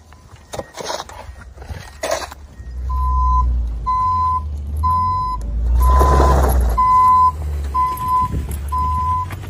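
Reversing alarm of a heavy vehicle beeping at a steady pitch about once a second, starting about three seconds in, over the deep rumble of its engine, with a short burst of hiss about halfway through.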